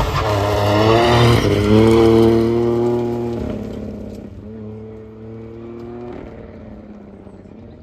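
Rally car engine passing close and accelerating away hard. Its pitch climbs, drops at gear changes about three and a half seconds in and again near six seconds, and the sound fades as the car goes away.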